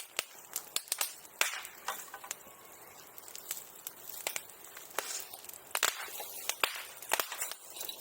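Bonfire crackling and popping: sharp, irregular snaps, a few to each second, some louder than others.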